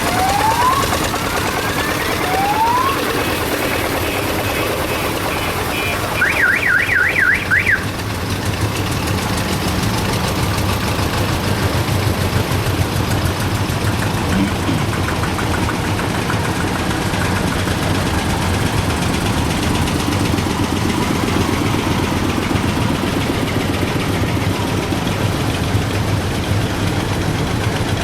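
Old vehicle engines running steadily. A few rising whistle-like glides sound near the start. About six seconds in, a warbling siren-like horn sounds for about a second and a half, with about four swings in pitch a second.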